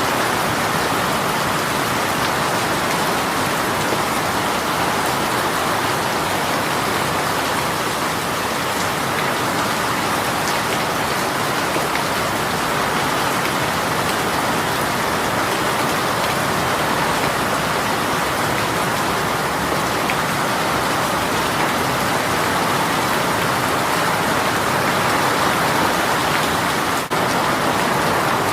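A heavy rain shower falling steadily, a dense, even patter of rain on surfaces, with a momentary dip near the end.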